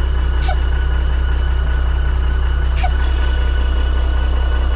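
1987 Ford L8000 turbo diesel engine idling steadily, with a steady high-pitched whine over it. Two brief chirps, about half a second in and near three seconds.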